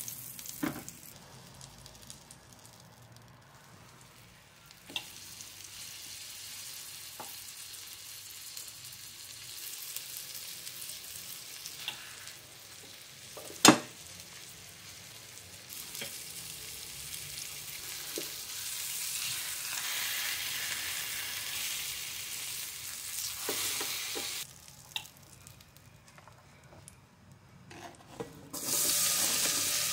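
Chicken breasts and butter frying in a pan, sizzling, while a fork clinks against the pan now and then. One sharp clink about halfway through is the loudest sound. The sizzle drops low twice for a few seconds.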